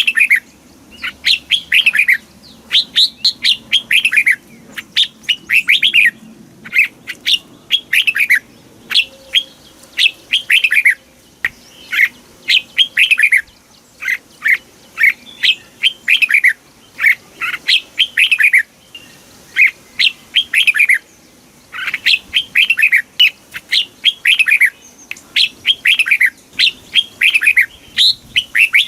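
Red-whiskered bulbul singing: quick phrases of bright, falling whistled notes, repeated again and again with short pauses between phrases.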